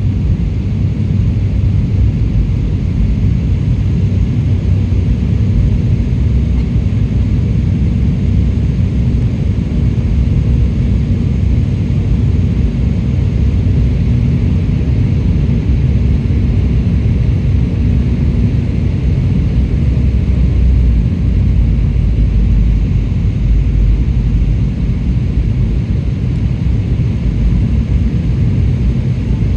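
Steady low rumble of a jet airliner's engines and airflow, heard inside the passenger cabin in flight, with a faint steady hum through the middle of the stretch.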